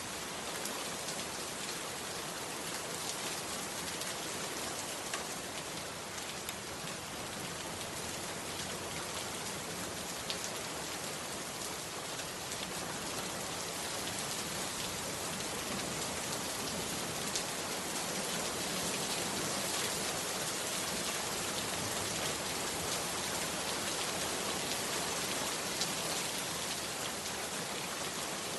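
Heavy rain falling steadily, an even hiss with a few sharper drop ticks scattered through it.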